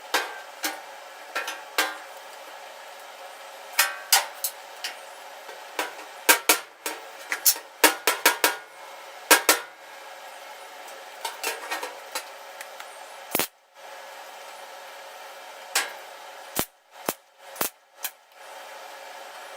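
Irregular sharp metallic knocks and clanks on sheet steel, some single and some in quick clusters, with a steady workshop hum underneath.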